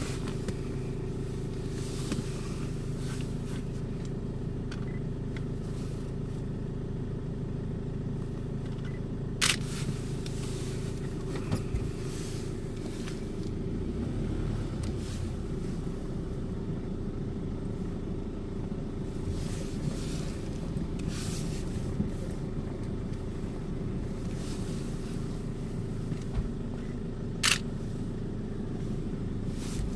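Vehicle engine running steadily at idle, heard from inside the cabin, with a few sharp clicks, the loudest about ten seconds in and near the end.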